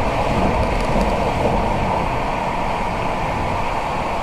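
Steady road and engine noise inside a car's cabin at highway speed, about 60 mph, on a wet road.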